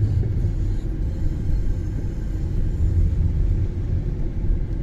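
Steady low rumble of a car being driven: engine and tyre road noise.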